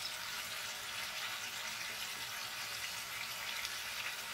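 Potatoes, onions and tomatoes sizzling steadily in hot oil in a karahi.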